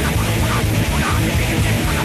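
Loud, distorted punk rock with heavy guitars and drums playing continuously.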